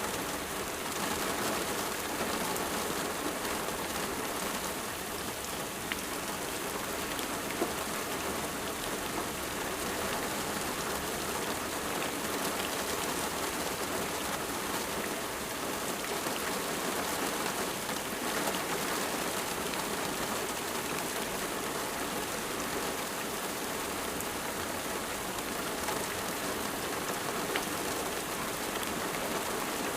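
Steady rain falling, an even patter of drops with a few faint individual drop ticks.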